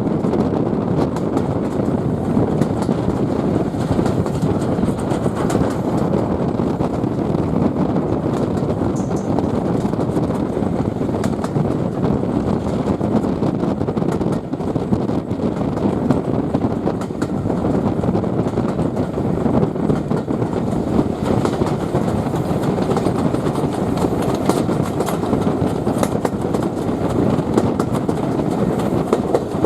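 Railway passenger carriage running along the line behind a steam locomotive: a steady rumble of wheels on the track with faint scattered clicks.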